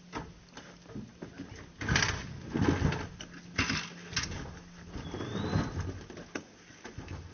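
A handful of knocks and thumps from wall-framing work, about five spread through the middle of the stretch. A bird gives a short rising chirp about five seconds in.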